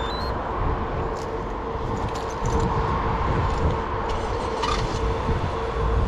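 Steady mechanical hum holding one constant tone, with a low rumble underneath and a few faint short scrapes now and then.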